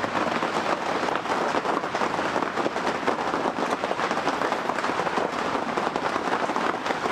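Heavy rain falling: a loud, steady, dense patter of drops.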